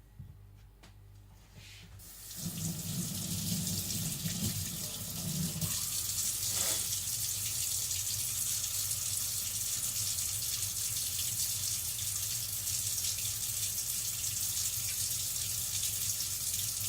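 Tap water running steadily into a sink, starting about two seconds in, with some low handling knocks in the first few seconds of the flow.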